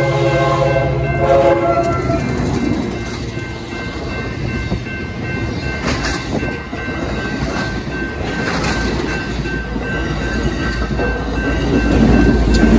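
Passenger train passing close by. The locomotive's air horn holds a chord that cuts off about a second and a half in, then the wheels rumble and clatter on the rails with a few sharp clacks, the rumble swelling near the end.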